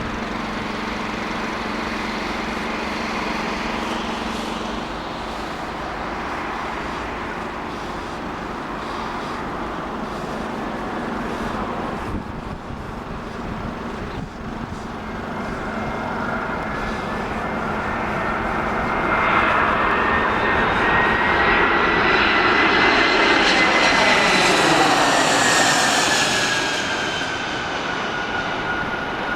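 An airliner on final approach flying past. Its engine noise and whine build over the first part, are loudest about 20 to 26 seconds in, then drop in pitch and fade as it goes by.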